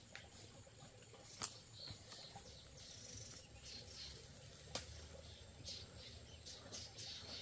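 Faint, scattered bird chirps with two sharp clicks about three seconds apart.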